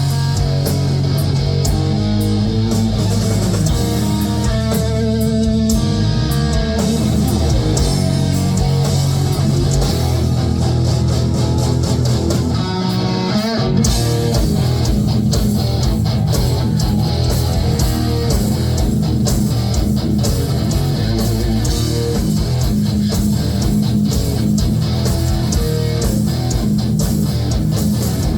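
Heavy metal band playing live: distorted electric guitars over bass and drums in an instrumental passage without singing.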